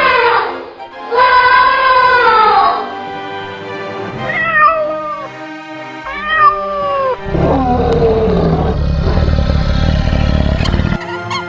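A rooster crowing, then two cat meows, then a long low rasping growl, with background music underneath.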